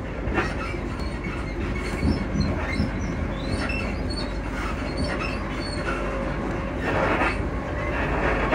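Inside a Class 334 electric multiple unit on the move: a steady rumble of wheels on the track, with knocks, creaks and short high squeaks from the carriage suspension and bodywork. A louder rush of noise comes about seven seconds in.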